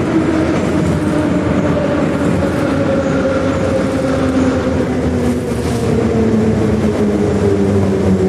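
Running noise of an 81-717/714 'Nomernoy' metro train: wheels rumbling on the track under the steady whine of its traction motors. The whine falls steadily in pitch throughout, as the train slows.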